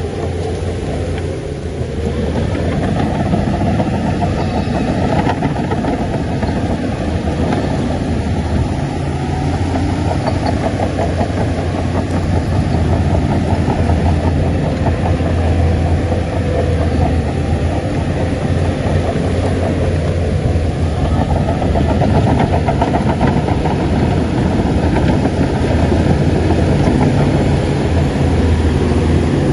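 Shantui bulldozer's diesel engine running steadily under load with a strong low hum, getting louder about two seconds in.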